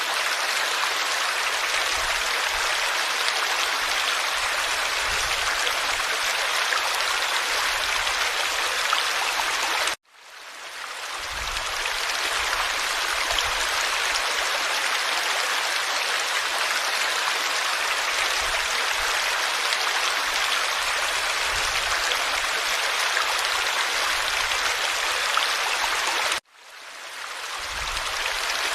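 Forest stream flowing steadily over stones, a continuous rushing babble. About ten seconds in and again near the end it drops out suddenly and fades back up over a second or two.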